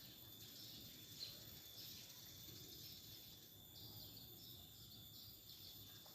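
Faint insects chirping, with a run of short, evenly repeated high chirps in the second half over a steady high buzz.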